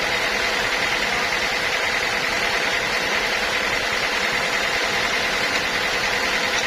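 Sawmill machinery running steadily with a constant high whine, with no change in load.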